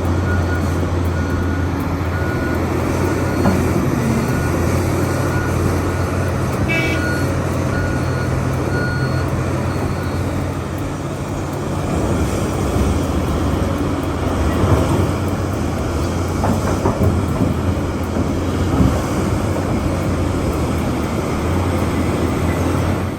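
Heavy diesel mining machinery running with a steady low engine drone. A warning alarm beeps repeatedly through the first ten seconds or so, then stops.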